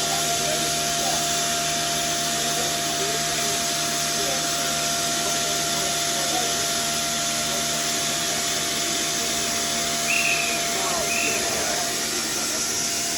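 Darjeeling Himalayan Railway B Class steam tank engine standing and hissing steadily, with a faint steady hum under the hiss. Two short high-pitched notes come near the end.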